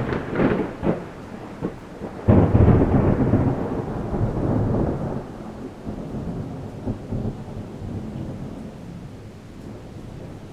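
Thunder during a rainstorm: a few sharp crackles at the start, then a loud clap about two seconds in that rolls away as a low rumble over several seconds, fading out. Steady rain hiss runs underneath.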